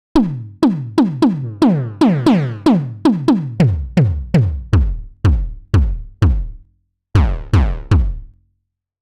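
Brainworx bx_oberhausen software synthesizer playing a percussive patch: a rhythmic run of short hits, each sweeping quickly down in pitch like a synth tom, about two to three a second. After a brief pause, three more hits end the phrase.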